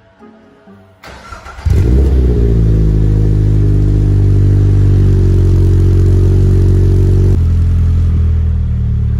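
Toyota GR86's flat-four engine starting through a Fujitsubo A-RM single-exit muffler. A brief crank about a second in, then the engine catches loudly and holds a steady raised idle, which drops to a lower, quieter note about seven seconds in.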